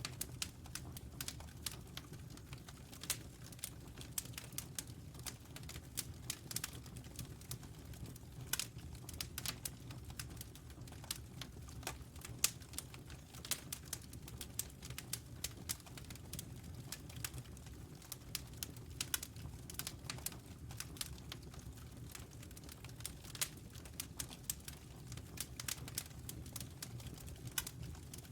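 Wood fire crackling: a constant run of irregular sharp pops and snaps over a steady low rumble.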